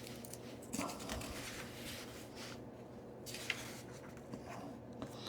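Paper pages of a book being turned and handled, a few soft rustles and scrapes.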